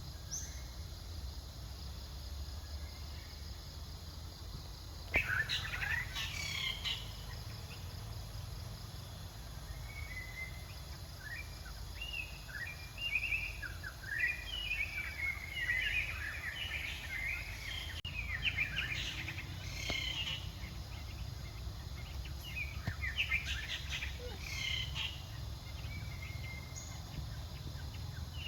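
Outdoor ambience with a steady low rumble; from about five seconds in, short high chirping calls come and go in bursts.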